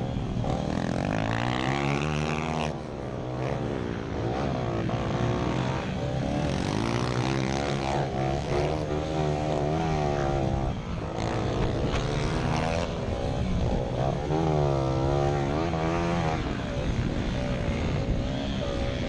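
Several small pit bike engines racing, their buzzing pitch rising and falling over and over as the riders rev and shift around the track.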